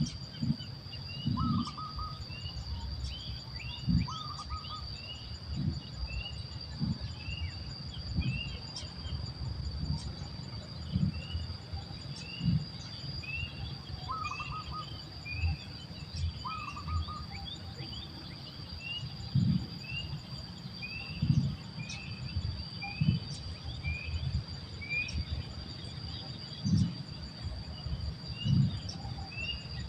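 A bird giving short, high chirps about once a second, with a few lower calls now and then, over a steady high insect drone. Scattered low, dull thumps are the loudest sounds.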